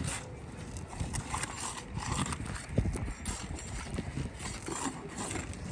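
Irregular knocks and taps of a tool on asphalt roof shingles as the old, too-short roofing nails are worked loose for replacement.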